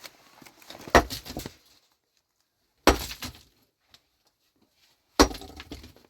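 Three heavy blows of a hand tool striking hard material, about two seconds apart, each followed by a short rattling tail.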